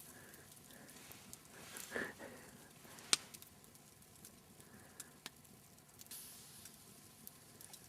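Open wood campfire crackling faintly, with a few sharp pops from the burning logs, the loudest about three seconds in.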